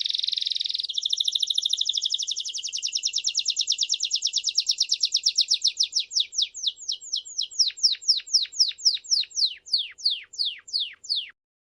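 A songbird singing: a dense buzzy trill for about the first second, then a long run of very fast notes that slows steadily into separate, descending whistled notes, about three a second near the end, before it stops.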